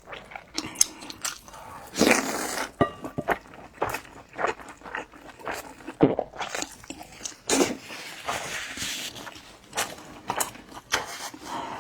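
A person eating close to the microphone: biting and chewing food, with irregular crunches and mouth clicks.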